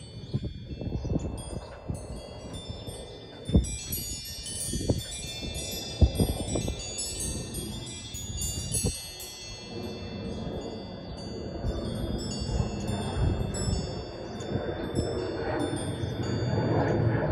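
Wind chimes ringing, many high metal tones overlapping, busiest in the first half, over a steady low rushing noise that grows louder toward the end. A few sharp thumps stand out.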